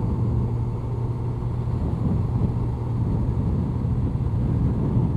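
Inline-four engine of a 2002 Honda CBR1100XX Blackbird running at a steady speed while riding, a constant even drone.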